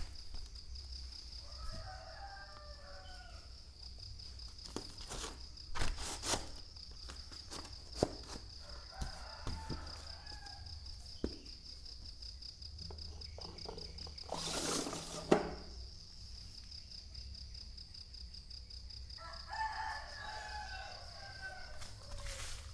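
A rooster crowing three times, several seconds apart, over a steady high insect buzz. Occasional sharp knocks and rattles break in, the loudest about fifteen seconds in.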